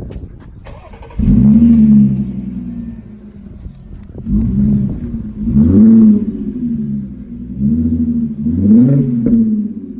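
Exhaust of a 2014 Audi A7 Quattro with its mufflers deleted, heard as the engine starts about a second in, flares loudly and settles, then is revved four times in quick blips that rise and fall in pitch.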